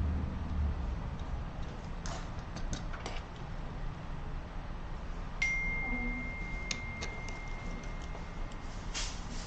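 Small plastic clicks and taps of a phone being handled and put back together. About halfway through, a sharp click is followed by a steady, high electronic beep held for about three and a half seconds before it stops.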